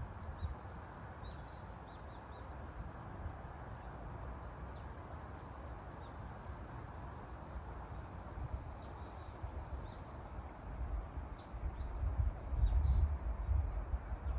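A valley stream rushing steadily, with small birds giving many short, high chirps over it. Low buffeting rumbles come in toward the end.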